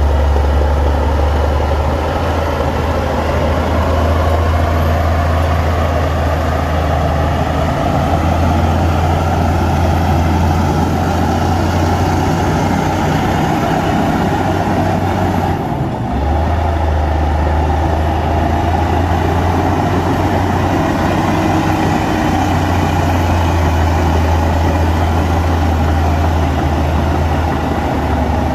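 Heavy diesel earthmoving machinery, a bulldozer and dump truck, running steadily with a strong deep engine hum, broken by a brief dip about halfway.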